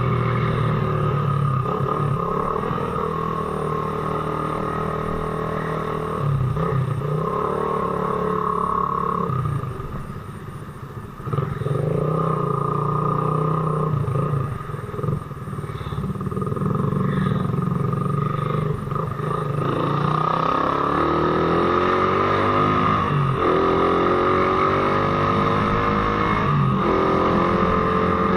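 Suzuki Raider motorcycle engine running while riding, its pitch rising and falling as it speeds up and eases off through the gears. The engine drops back quieter about ten seconds in, then pulls up again in long rising sweeps near the end.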